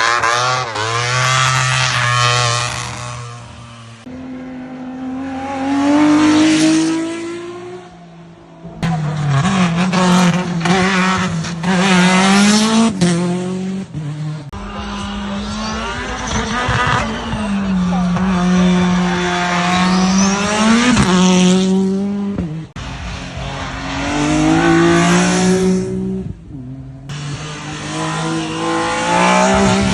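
A series of hillclimb race cars at full throttle, engines revving up hard and dropping in pitch at each gear change as they pass. It comes as about six separate loud passes joined by abrupt cuts.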